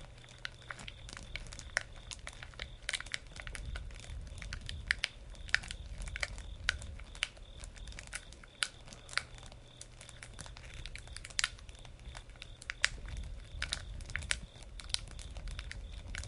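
Campfire crackling: wood burning with irregular sharp pops and snaps, several a second, over a low rumble.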